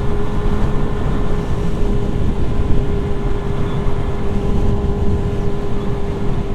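Motorcycle engine running and holding a steady pitch, over a dense low rumble.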